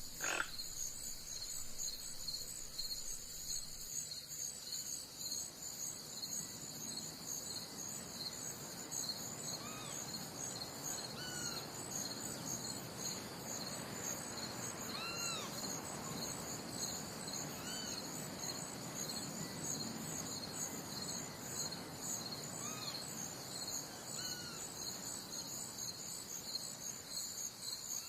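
Insect chorus, crickets, with a steady, fast-pulsing high trill. Now and then there is a short, arched call from another animal, about eight in all. A single click sounds right at the start.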